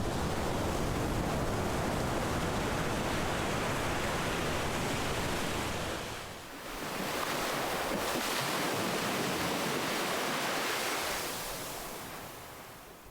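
Ocean surf: waves washing in one after another, a steady rush of noise. It dips briefly about halfway through, swells again, and fades near the end as the next wave builds.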